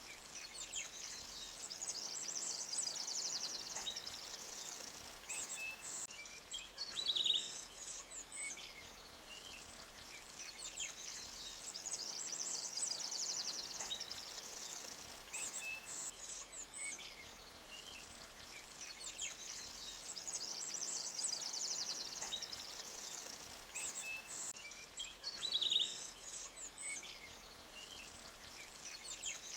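Forest birds chirping and trilling over a faint, steady background hiss, with a louder chirp about seven seconds in and again near the end.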